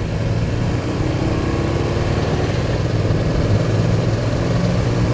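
BMW R1200 motorcycle's flat-twin boxer engine running steadily under way on a climb, with wind noise over it.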